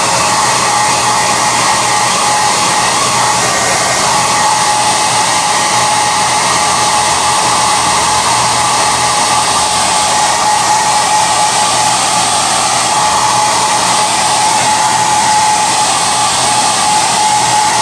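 SOUNATE high-airflow hair dryer running steadily at a constant level, with a steady high whine over its rushing air.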